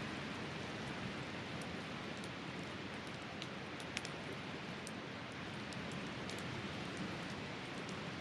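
Wood campfire burning steadily, with scattered small crackles and one sharper pop about four seconds in, over a steady even hiss.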